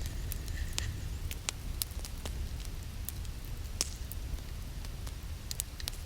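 Irregular sharp crackles and pops, one or two a second, over a steady low rumble.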